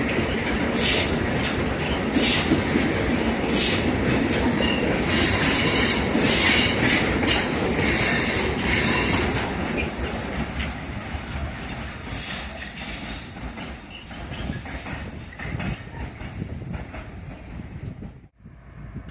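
Loaded coal wagons of a long, heavy freight train rolling past, wheels screeching and clattering over the rail joints. The noise fades away over the last several seconds as the end of the train goes by.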